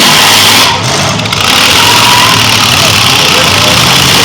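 Demolition derby cars' engines running and revving loudly, with a brief drop in level about a second in.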